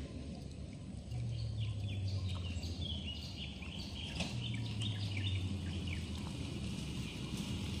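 Small birds chirping over and over in quick, short calls, with a low hum underneath that fades in and out.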